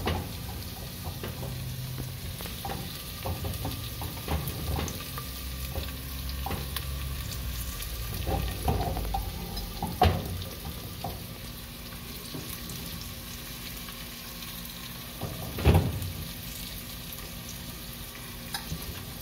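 Onion slices and chopped garlic sizzling in olive oil in the bottom of a pressure cooker, with scattered small clicks. Two louder knocks come about ten and sixteen seconds in.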